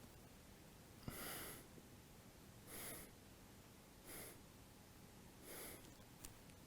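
A person breathing audibly, in and out through the nose, while holding a yoga back bend: four short, faint breaths spaced about a second and a half apart.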